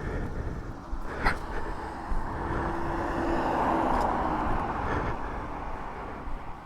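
A motor vehicle's engine and road noise swells and then fades over a few seconds, with a sharp click about a second in.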